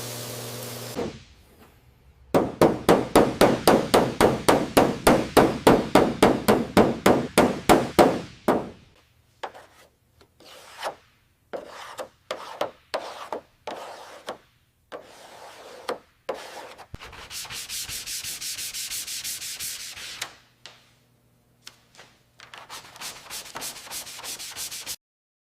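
Back-and-forth rubbing strokes of hand sanding: a fast even run of about three strokes a second, then slower scattered strokes and a few seconds of steady rubbing. A steady hum stops about a second in.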